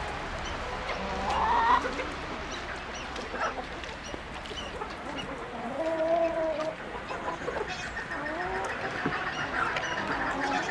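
Farm poultry calling: several separate calls overlap, some gliding in pitch, the loudest about a second and a half in and again around six seconds.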